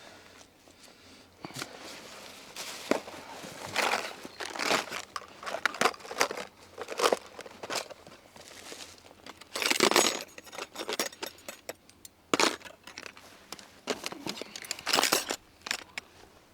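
Close rustling and crinkling handling noises in irregular bursts, loudest about 4, 10 and 15 seconds in.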